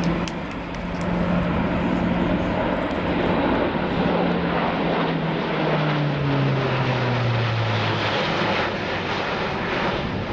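Airbus A400M's four TP400 turboprop engines and propellers droning loudly as the aircraft flies by, with a steady tone that falls in pitch partway through as it passes.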